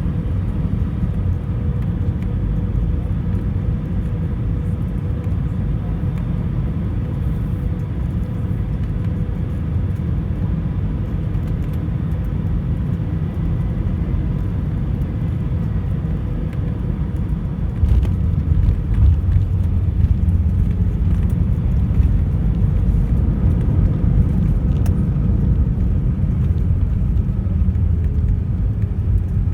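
Airbus A320 cabin noise on approach: a steady low rumble of engines and airflow with a faint hum above it. About eighteen seconds in it grows louder and rougher and stays that way.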